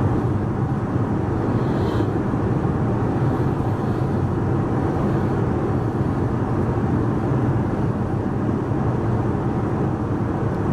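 Airbus A380 passenger cabin in cruise: a steady, even rush of engine and airflow noise, strongest in the low range. It cuts off suddenly at the very end.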